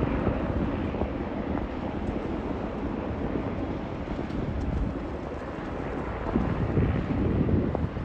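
Wind buffeting the microphone over a steady low rumble, with stronger gusts swelling about six seconds in.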